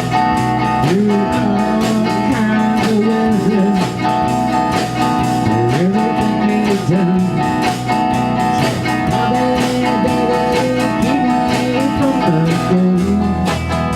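Band playing an instrumental break in a blues-rock song: a lead guitar plays bending, sliding notes over a steady drum beat, with the bass growing heavier near the end.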